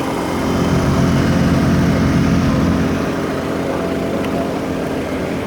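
An engine running at a steady pitch, growing louder from about half a second in and easing back after about three seconds.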